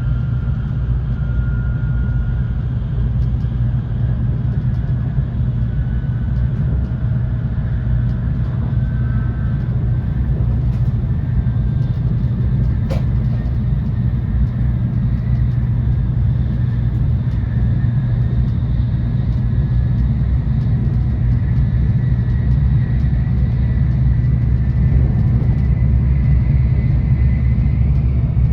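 Cabin running noise of an N700A Shinkansen train: a steady low rumble with a faint high whine that edges up slightly in pitch, and one sharp click about halfway through.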